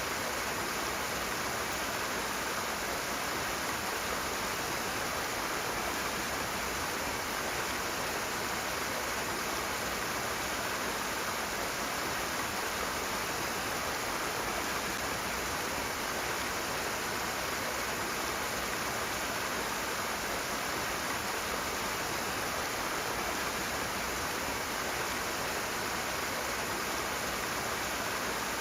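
Rushing water in a stream: a steady, even rush with no breaks or changes.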